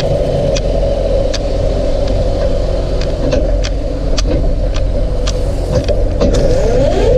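Tractor engine running steadily while spreading chicken litter, with scattered sharp clicks and knocks. Near the end a whine rises in pitch.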